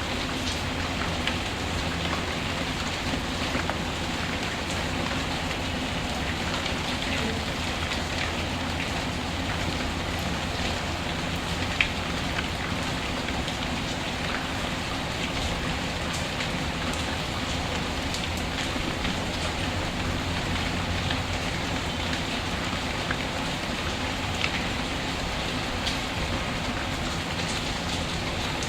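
Steady rain falling, with scattered sharp crackles of a wood fire in a fireplace and one louder snap about twelve seconds in.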